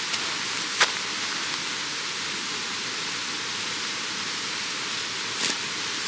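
Mountain stream rushing steadily, with a short sharp click just under a second in and another, softer one near the end.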